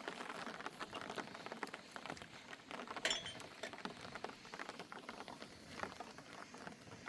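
An irregular patter of many light taps and small clicks, with one sharper click about three seconds in.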